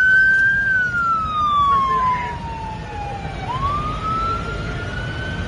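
Police car siren wailing, rising and falling slowly in one long cycle, over a steady low rumble of engine and road noise.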